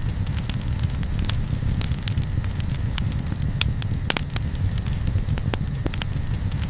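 Campfire crackling, with irregular sharp pops and snaps over a steady low rumble. A faint, short, high chirp repeats a little faster than once a second.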